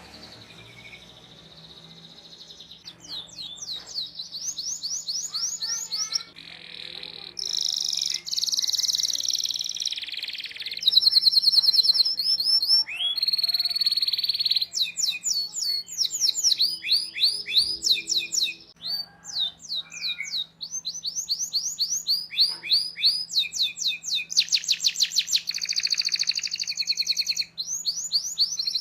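Domestic canary singing a long song of chirps and rolling trills. Each phrase is a fast run of one repeated high note, and the phrase changes every second or two.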